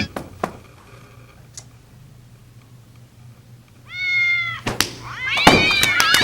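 Domestic cat meowing: one short, even meow about four seconds in, then a louder, longer meow that wavers in pitch near the end.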